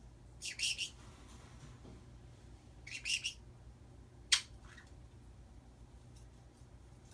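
Pet birds calling: short high chirps and squawks in three bursts, about half a second in, about three seconds in, and a single sharp call just after four seconds, over a low steady hum.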